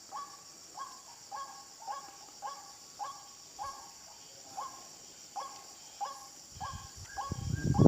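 White-breasted waterhen call, a short harsh note repeated evenly about twice a second. Insects drone steadily behind it, and rustling handling noise builds up near the end.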